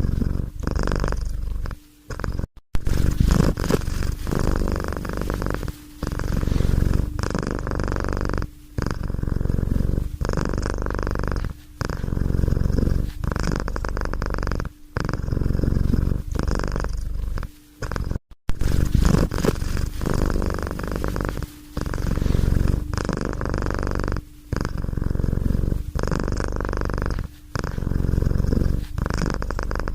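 Domestic cat purring steadily, in cycles of about two to three seconds with a brief pause between each breath in and out.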